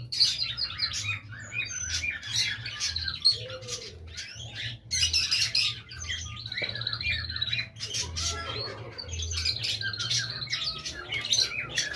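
A group of birds chirping and squawking: many short, overlapping calls in a busy, continuous chatter.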